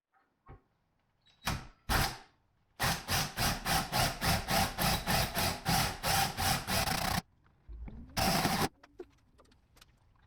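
Power drill run in short bursts: two brief spurts, then a few seconds of rapid pulsing on and off at about three times a second, and one more short run near the end.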